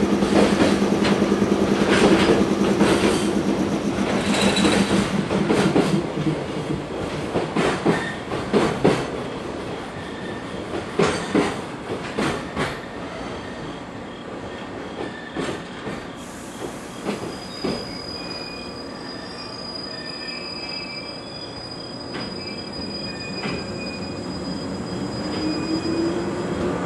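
Freight train's container wagons rolling past, wheels clicking rapidly over the rail joints. The clatter thins out and fades once the last wagon has gone by, about halfway through, leaving a faint steady high tone.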